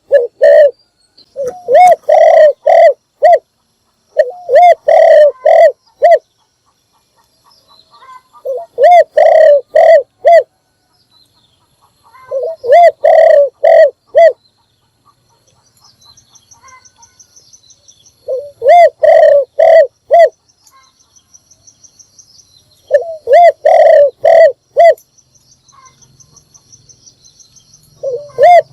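Spotted dove cooing: its call phrase of four or five low, arched coo notes, repeated about seven times with short pauses between. A faint, high, steady trill sounds behind the later phrases.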